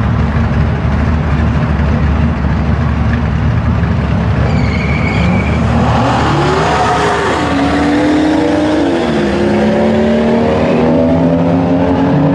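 Drag car engine: a loud low rumble, then from about six seconds in the car accelerates hard through the gears, its pitch climbing and dropping back at each shift.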